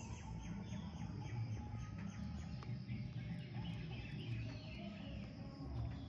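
Faint bird chirps over a low, steady rumble of outdoor background noise.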